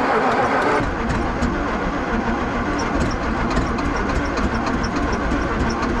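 The 1960s Ford dump truck's engine being cranked over on its starter after two years sitting, not yet firing. A low rumble comes in about a second in and holds steady.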